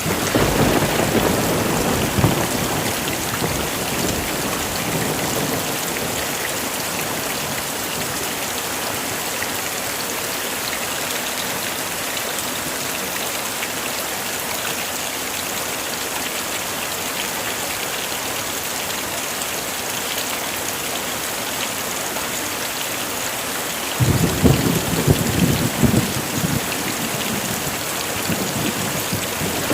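Heavy rain falling steadily, with thunder: a low rumble in the first few seconds fades away, and about 24 seconds in a sudden roll of thunder comes in and rumbles on for several seconds.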